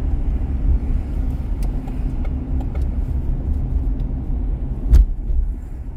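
Car driving along a city street: a steady low rumble of road and engine noise. A few faint ticks sound early on, and there is one sharp knock about five seconds in.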